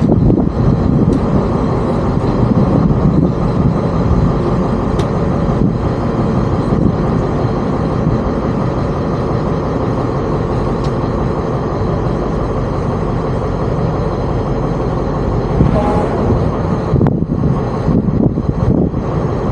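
Tour boat's engine running steadily, a continuous low drone.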